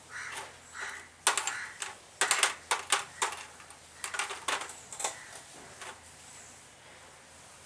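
Sharp metallic clicks and clinks of small engine parts and hand tools being handled during assembly of a Honda Chaly engine, coming in irregular clusters over a few seconds.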